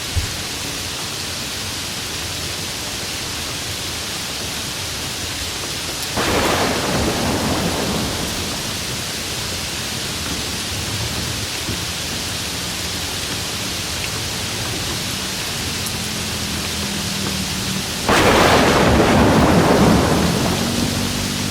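Steady rain hissing, with two claps of thunder that break in suddenly, about six seconds in and again near the end, each rumbling and fading over a couple of seconds.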